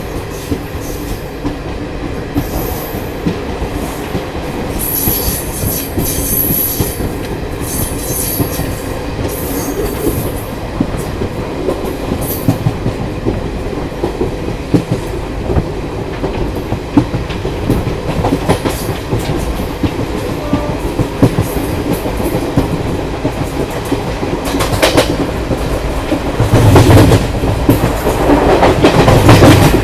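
Garib Rath Express coaches running at speed, heard from an open coach door: a steady rumble with the clickety-clack of wheels over rail joints and a few brief high squeals about five to nine seconds in. The sound grows louder over the last few seconds.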